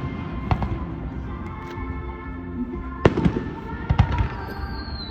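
Aerial firework shells bursting in the sky, a few sharp booms, the strongest about three seconds in and around four seconds in, with background music playing steadily.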